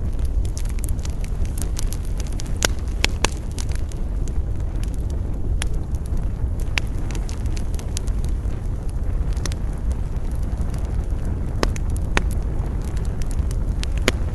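Wood campfire crackling, with scattered sharp pops over a steady low rumble of wind.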